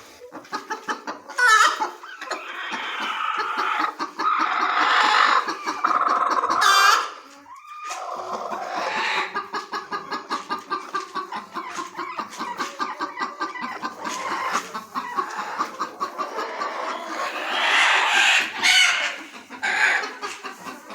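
A flock of chickens clucking and calling, with a rooster crowing among them; a long stretch of rapid, repeated clucks runs through the middle.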